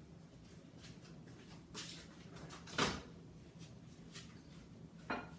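A few faint knocks and bumps, like a cupboard or door being handled, in a quiet small room; the loudest knock comes about three seconds in.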